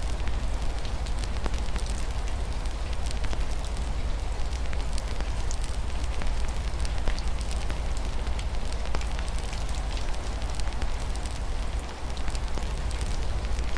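Wood fire crackling with many small, irregular pops over a steady hiss of rain and a low rumble.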